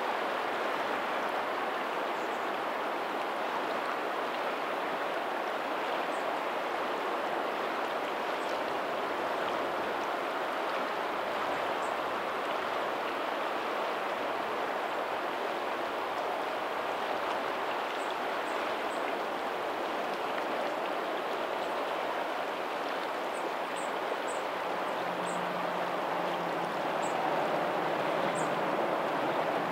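Lagoon tidal outflow water running steadily over a pebbly shore, a constant even rush. Faint short high ticks come here and there, more often near the end.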